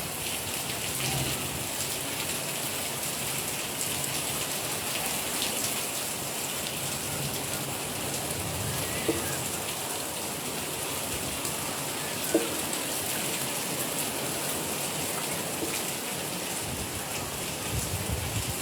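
Steady rain falling and pattering on surfaces, with a couple of brief louder drips or taps about nine and twelve seconds in.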